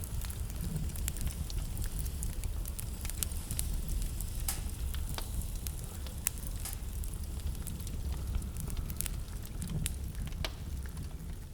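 Wood fire burning in a fireplace, crackling with irregular sharp pops and snaps, a few of them louder, over a steady low rumble.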